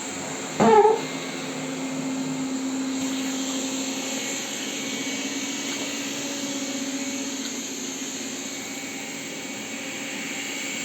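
Robot vacuum cleaner running with a steady hum. A short, loud pitched sound comes about half a second in.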